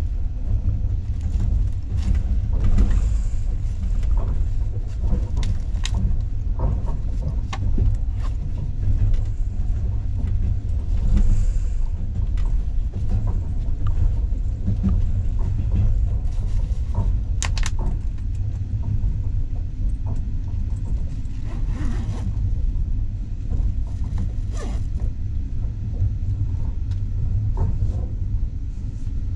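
Russian passenger train carriage running along the track, heard from inside the compartment: a steady low rumble with scattered clicks and knocks from the wheels on the rails.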